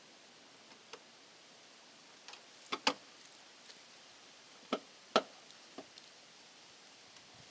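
Scattered sharp clicks and taps on a quiet background, about seven in all, the loudest coming as a close pair near three seconds in and another pair around five seconds in.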